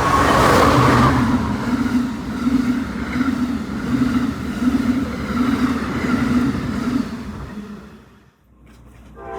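Amtrak passenger train passing at speed: a loud rush of noise that swells at the start, with a low rhythmic pulse about twice a second from the wheels, fading away about seven seconds in.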